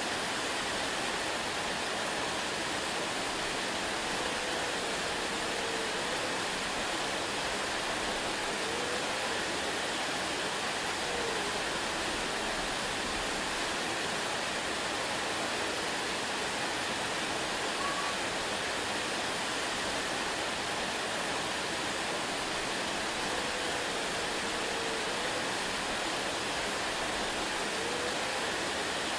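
Waterfall: a steady, even rush of falling water, with a few faint short chirp-like tones now and then.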